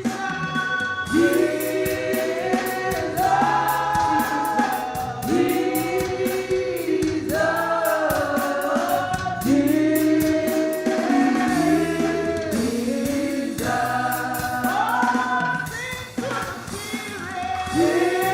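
Gospel worship singing: several voices hold long, slow sung notes over instrumental backing with a steady, evenly ticking percussion beat.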